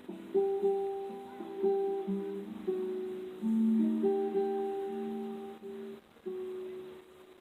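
Music: a plucked guitar playing a slow melody of held notes over chords.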